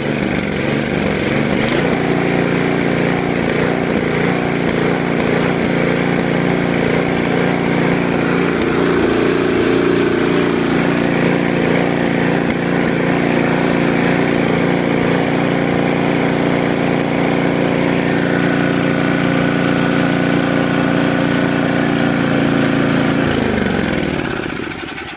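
Small gasoline engines running steadily, warmed up after a cold start. Near the end one engine is switched off and winds down.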